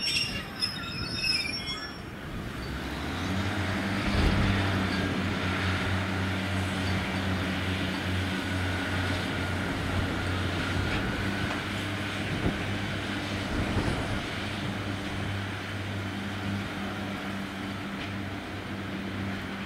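Train on the line: a brief high-pitched wheel squeal at the start, then from about three seconds in a steady low engine hum that runs on.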